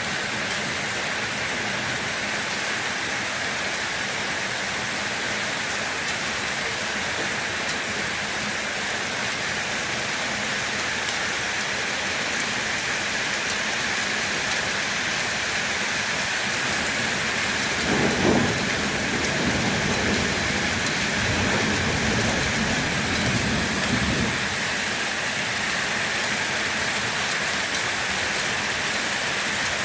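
Steady rain falling, an even hiss of drops. About two-thirds of the way in, a roll of thunder rumbles low for several seconds and fades.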